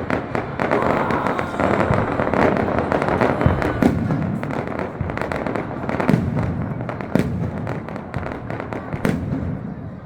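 Fireworks display: a rapid series of sharp bangs from shells bursting, over dense crackling that thins out toward the end.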